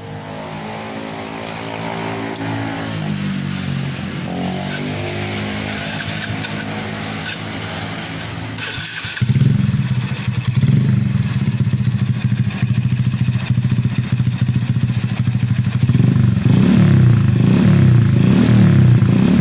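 Motorcycle engine running through an aftermarket SXperformance exhaust (knalpot), at first fairly steady with a few pitch shifts. About nine seconds in it gets suddenly much louder, with a deep pulsing exhaust note and short throttle blips near the end.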